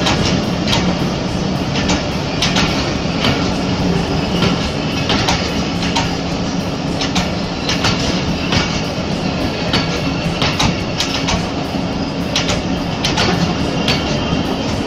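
Passenger train coaches rolling slowly past on the adjacent track, wheels clicking over the rail joints over a steady rumble.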